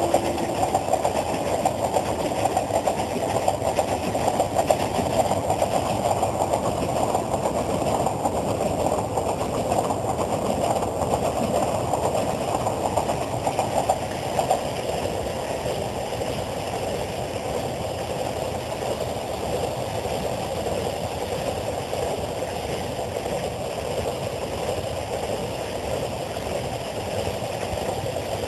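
Two trains passing at speed on adjacent tracks: an express passenger train's coaches and a container freight train's wagons, a steady rumble of wheels on rail. A train horn note cuts off right at the start, and the rumble drops a little about halfway through as the express's last coach clears, leaving the container wagons running on.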